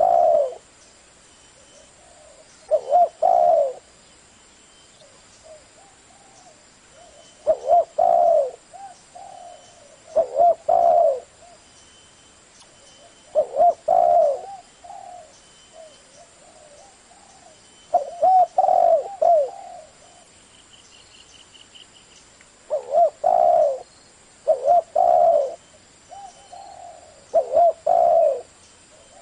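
Spotted dove cooing in the deep 'thổ' voice: about nine loud phrases of a few low notes each, two to five seconds apart, with softer coos between them.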